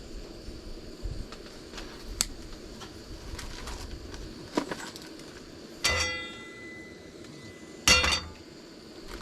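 Tableware being handled while a meal is set out: a few light clicks, then two sharp clinks about two seconds apart, the first ringing on briefly.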